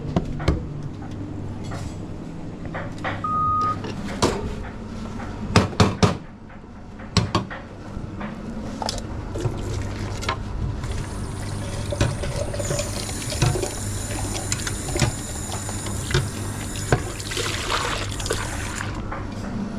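Espresso machine steam wand hissing as it froths milk, starting a little past halfway and stopping near the end. Before it come a few sharp knocks and clatter from the coffee-making.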